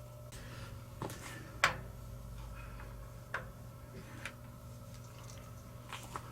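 A few scattered light clicks and knocks, the sharpest about a second and a half in, over a faint steady machine-shop hum.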